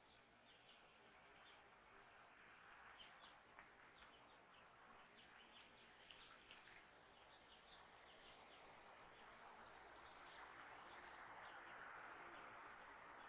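Faint, scattered short chirps of small birds over a steady hiss of background noise that grows louder toward the end.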